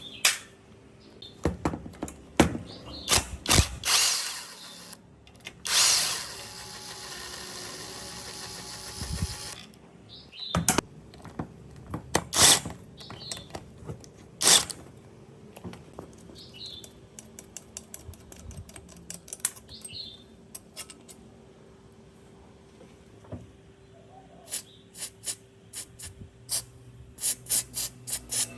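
Tool work on a restoration piece: scattered sharp clicks and knocks, with a power tool running for about three and a half seconds a few seconds in. Later come quick runs of small clicks.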